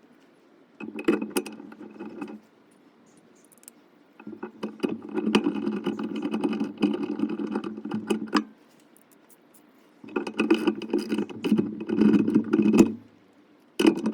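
A small motor runs in four bursts of about one to four seconds each, holding a steady pitch, with clicks and rattles over it and quiet gaps between.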